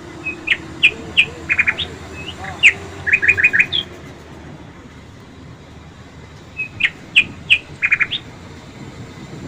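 A songbird singing the same short phrase twice, a few seconds apart. Each phrase is a run of quick, sharp chirps over a steady outdoor background.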